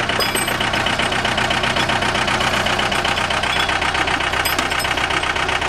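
An engine running steadily at a constant speed, with a rapid, even pulse.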